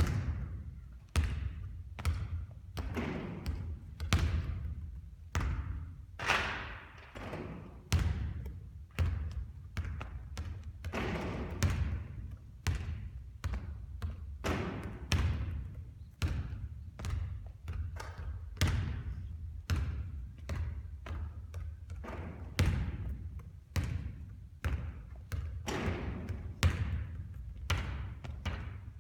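Basketball bouncing and thudding on a court again and again at an uneven pace, about one or two hits a second, some of them ringing on with echo.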